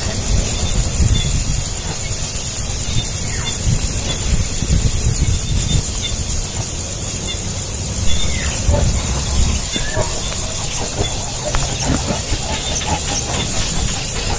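Nestling birds begging for food with continuous high, hissing squeals. Underneath runs a low rumble.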